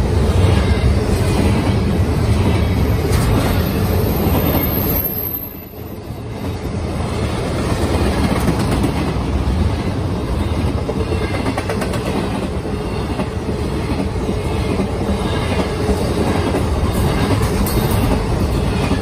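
Double-stack intermodal freight train rolling past close by: a steady rumble and clatter of steel wheels on the rails, with a thin high squeal about four seconds in and a brief dip in the noise at about five and a half seconds.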